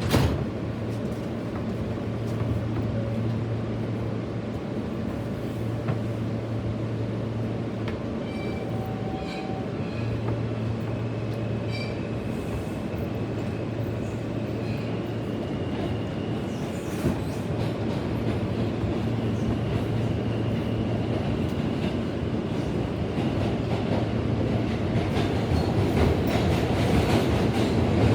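New York City subway E train heard from inside the car while running between stations. It makes a steady rumble with a low hum, thin high-pitched tones come in through the middle, and the noise grows gradually louder toward the end.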